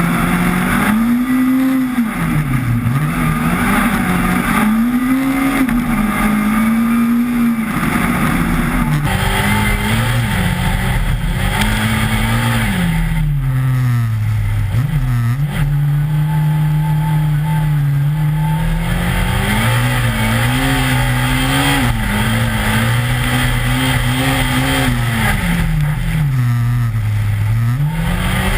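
BMW M3 race car's engine driven hard on an ice track, revving up and dropping back again and again, its pitch rising and falling with throttle and gear changes, over a steady hiss of tyre and road noise.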